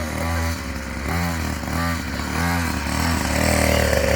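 Small dirt bike engine running, its pitch swelling and dipping again and again, about every half second or so, as the throttle is worked.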